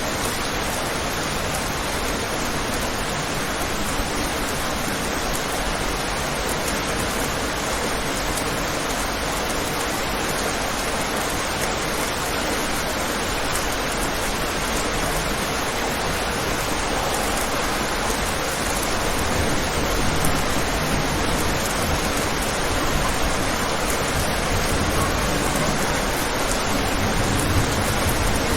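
Steady rain falling on a window, an even, unbroken hiss of water that grows a little fuller and deeper in the second half.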